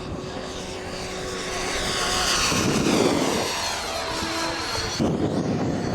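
Electric radio-controlled helicopter making a close pass: its motor and rotor whine grows louder to a peak about three seconds in, then falls in pitch as it moves away.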